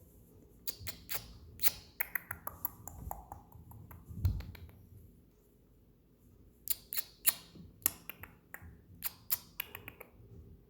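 Green-cheeked conure's beak clicking and tapping close to the microphone: two runs of quick sharp clicks, with a dull bump about four seconds in.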